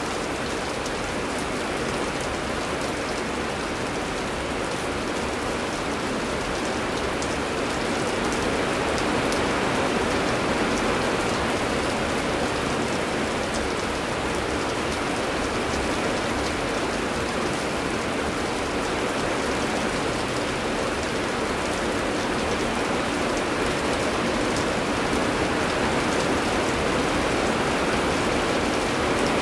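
Steady heavy rain falling in a dense, even patter, with fine drop detail throughout.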